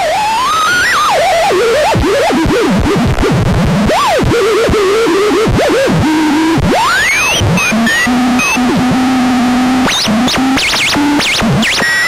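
Experimental modular synthesizer noise: wandering, warbling pitch glides over a hissing wash of noise. In the second half a steady low drone comes in, broken off and restarted a few times, while fast looping sweeps warble above it near the end.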